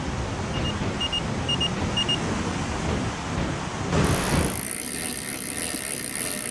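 Road traffic noise, a steady rumble, with four quick pairs of short high beeps in the first couple of seconds; about four seconds in, the sound changes abruptly to a hissier noise.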